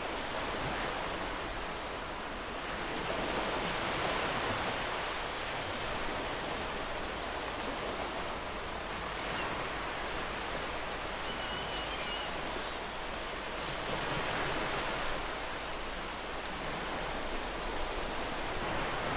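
Ocean waves breaking and washing up the shore: a steady rush of surf that swells louder a few times as sets come in.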